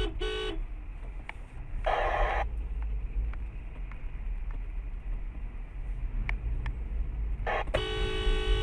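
Car horn honking: a blast that stops just after the start, then near the end a short toot followed by a longer blast, over the steady low rumble of a moving car heard from inside. A brief rush of noise comes about two seconds in.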